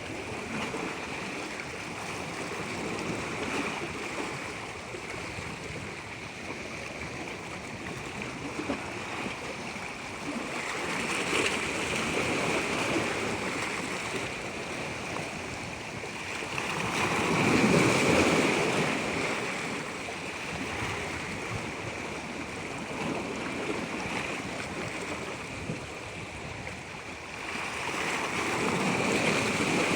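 Moving water rushing and splashing without a break, swelling louder three times, most of all about eighteen seconds in.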